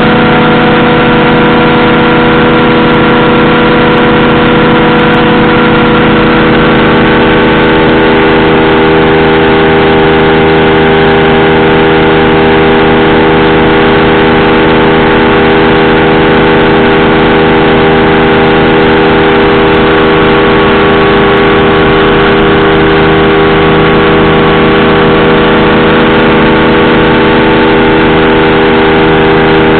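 Powered parachute's engine and propeller running steadily and loudly, its note shifting slightly about seven seconds in.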